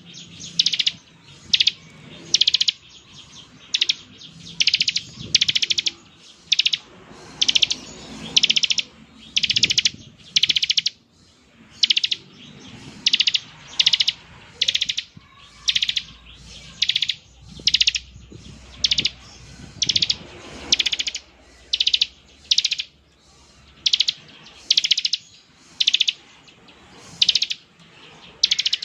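Bar-winged prinia (ciblek) giving its buzzy, rattling 'ngebren' call. It comes as short, high trilled bursts repeated over and over, about one to two a second.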